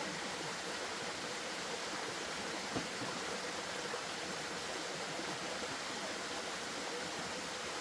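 Steady rushing of running water, with one sharp knock a little under three seconds in.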